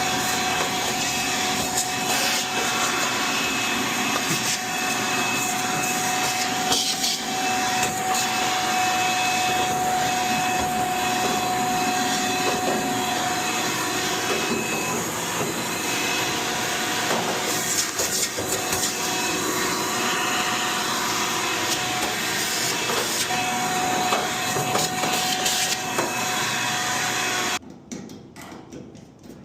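Vacuum motor running steadily with a constant whine over a broad hiss, cleaning out the dryer vent, then cutting off suddenly near the end.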